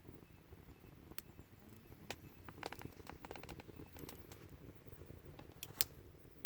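Wood fire crackling in a small folding fire stand: irregular sharp pops and ticks over a low background hush, with the loudest pop a little before the end.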